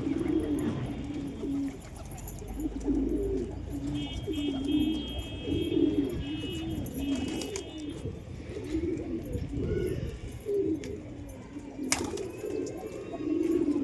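Several domestic pigeons cooing over and over, low warbling calls overlapping one another. A single sharp click sounds about twelve seconds in.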